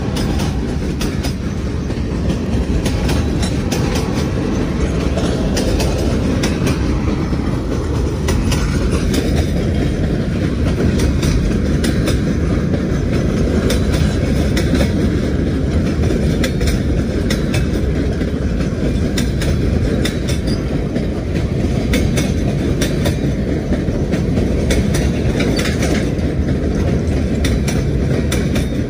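Freight train of boxcars rolling by: a steady rumble of steel wheels on rail, with repeated clicks as the wheels pass over rail joints.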